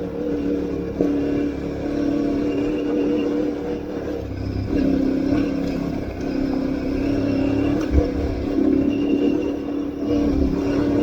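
Aprilia Tuareg 660's parallel-twin engine running at fairly steady revs while the bike is ridden off-road, its pitch shifting slightly about halfway through. A short thump comes about eight seconds in.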